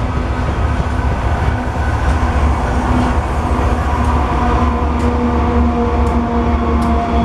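Loaded coal hopper cars of a BNSF freight train rolling past with a continuous low rumble of wheels on rail. A steady diesel engine hum grows louder from about halfway through as a distributed-power locomotive in the train approaches.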